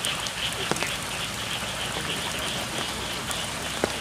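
Steady rain falling, with scattered louder drops hitting close by, over a continuous pulsing chorus of frogs in the rice fields.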